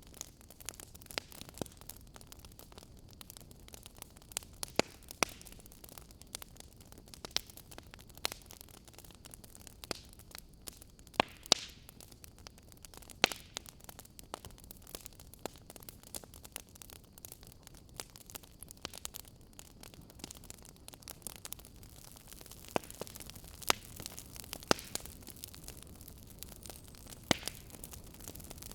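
Campfire burning: wood crackling and popping in irregular sharp snaps over a low steady hiss.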